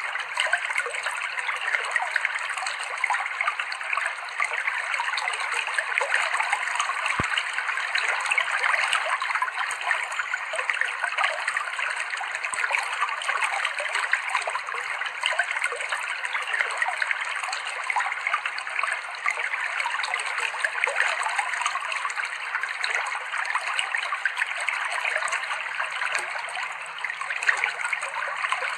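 Clear river water flowing and trickling over rocks, a steady splashing babble.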